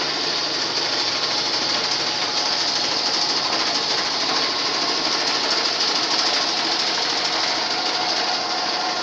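Metal lathe running steadily with an even, high whine and no pauses.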